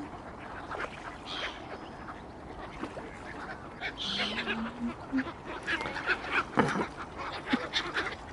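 Water birds calling: a run of short calls, scattered at first and coming thick and fast in the last few seconds.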